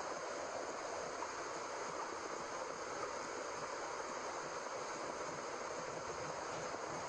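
Steady white noise of the 'womb sound' kind used to settle babies: an even rushing hiss like running water, with no beat or change.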